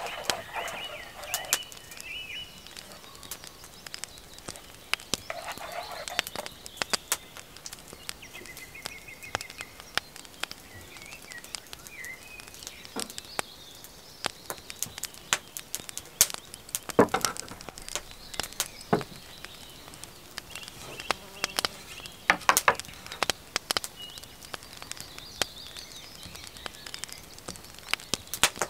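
Rain drops landing in scattered sharp taps and drips, with birds chirping briefly now and then. A twig whisk beats batter in a wooden bowl near the start, and again briefly about five seconds in.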